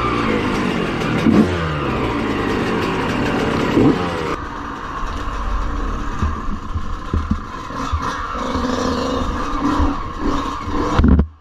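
Dirt bike engine revving up and down as the bike is ridden, its pitch rising and falling repeatedly. About four seconds in the sound changes abruptly to a lower, steadier engine note with scattered knocks and clatter, and it cuts off suddenly near the end.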